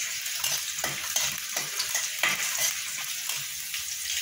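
Green chillies sizzling in hot oil in a kadai, with a steady hiss. A spatula scrapes and knocks against the pan in short strokes as they are stirred until crisp.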